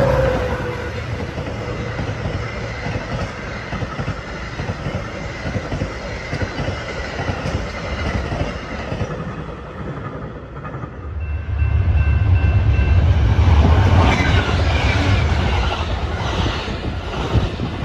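Passenger trains passing close at speed: a steady rush of steel wheels on rail from a diesel locomotive and bi-level coaches. About eleven seconds in, a heavier low rumble takes over, and later come rhythmic clacks of wheels crossing rail joints.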